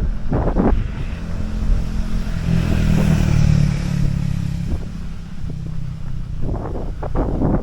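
A motor vehicle passes by, its engine hum swelling in the middle and then fading, over wind noise on the microphone.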